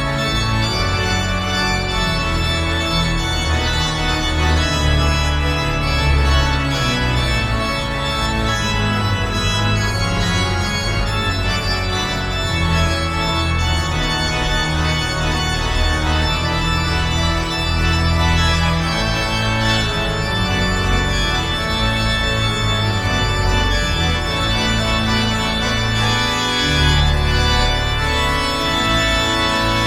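Organ music playing slow, sustained chords with a strong bass line.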